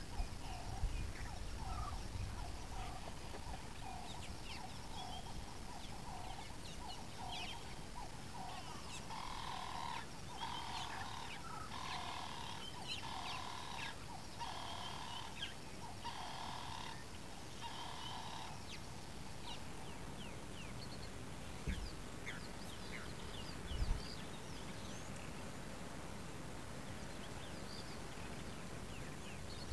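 A bird calling a long series of repeated notes, about one a second, which grow louder and fuller for a stretch and stop a little past halfway. Faint chirps of other birds run underneath, and there are two low thumps later on.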